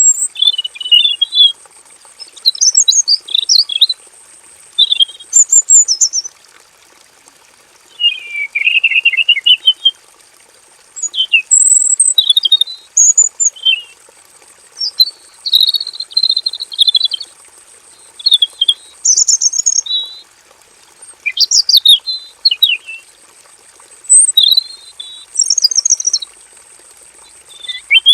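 Male red-billed leiothrix singing: a run of short, varied, high phrases one after another, with brief pauses between them.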